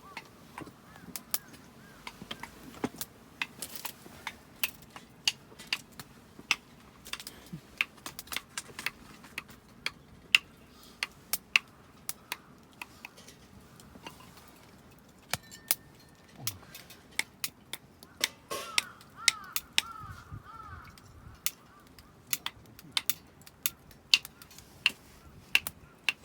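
Scattered sharp clicks and clinks, a few each second and irregular throughout. There is a brief warbling call about two-thirds of the way in.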